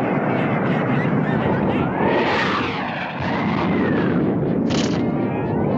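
Cartoon sound effect: a continuous rushing noise with whistling tones that slide up and down, and a short hiss about five seconds in.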